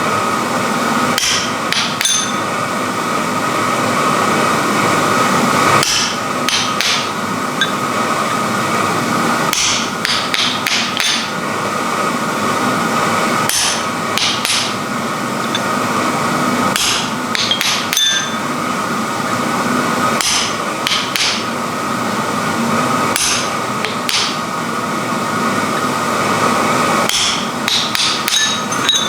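Hammer blows on iron, struck in irregular groups of two to four every few seconds, with a bright metallic ring, over a steady hum.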